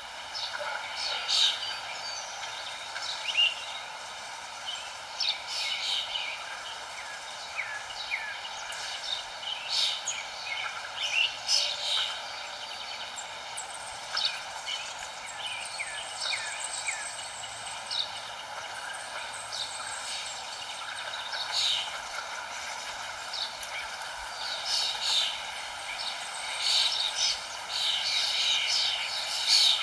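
Several songbirds chirping and trilling in quick short phrases throughout, over a steady background hiss.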